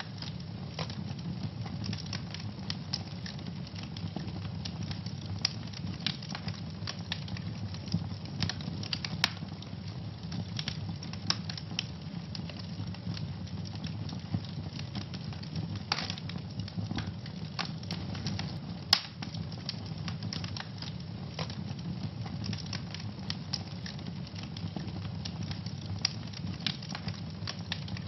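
Wood fire in a fireplace, crackling steadily with a low rumble of flame underneath and dense small snaps. A few louder pops stand out, about nine, sixteen and nineteen seconds in.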